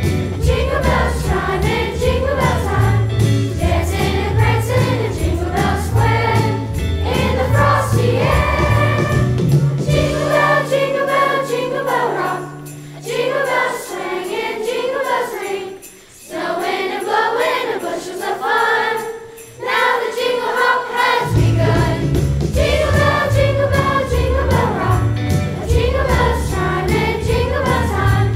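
A chorus singing a Christmas song over a rhythmic instrumental accompaniment. The low accompaniment drops out for about ten seconds in the middle while the voices carry on, then comes back in.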